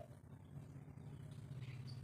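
A quiet pause between spotted dove coo phrases: only a faint steady low hum, with a brief faint high chirp near the end.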